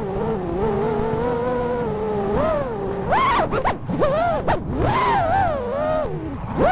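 Brushless motors of an FPV quadcopter whining, their pitch rising and falling as the throttle changes. About three seconds in come quick swoops and short cuts as the pilot punches and chops the throttle.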